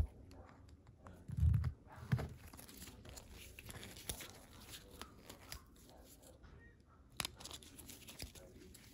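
Workbench handling noises: scattered sharp clicks and taps of small parts and tools, soft rustling, and a low thump about a second and a half in.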